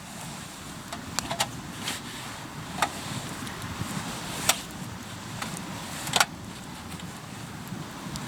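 Wood campfire crackling, with about half a dozen sharp pops scattered through, the loudest two about four and a half and six seconds in, over a steady low rushing noise.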